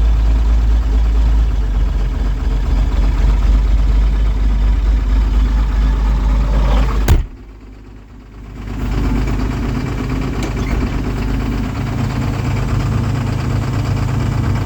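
John Deere 7810 tractor's six-cylinder diesel engine running steadily. About seven seconds in, the sound cuts off abruptly with a click, drops away for a second and a half, then the engine comes back in with a steady, deeper note.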